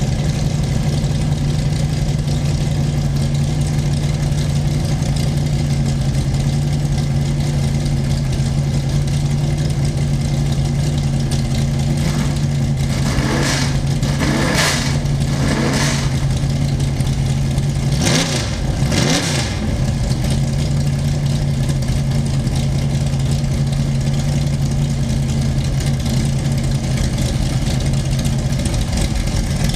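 Race car engine idling steadily, revved in a few short blips around the middle.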